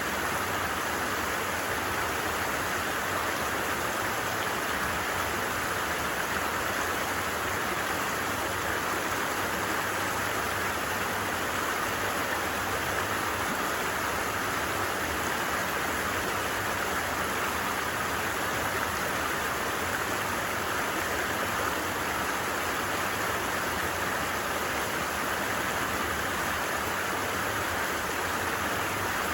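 Steady rushing of a flowing stream, an even hiss with no pauses or changes.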